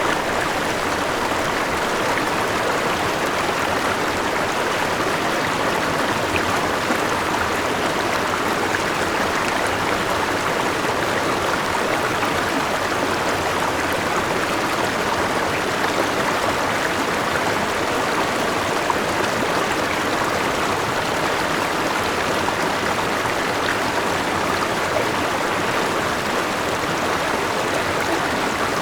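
Forest river and small waterfall: water rushing and splashing over rocks in a steady, even wash.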